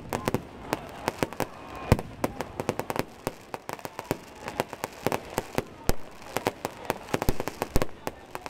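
Fireworks going off in rapid, irregular succession: many sharp bangs and pops, several a second at times, some loud and some distant, with a little crackling between them.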